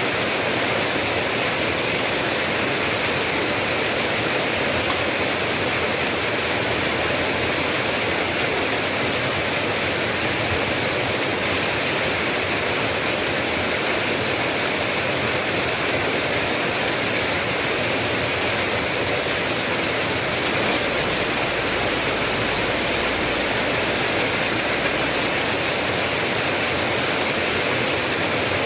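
Steady heavy rain, an even dense hiss with no distinct drops standing out. A faint low rumble joins for a few seconds about two-thirds of the way through.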